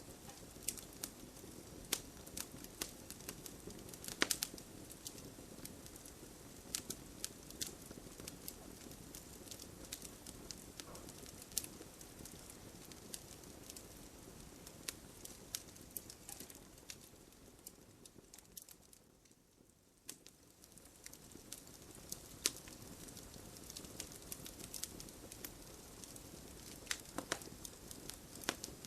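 Campfire crackling, with irregular sharp pops over a steady low hiss. The sound dips briefly and fades a little about two-thirds of the way through, then picks up again.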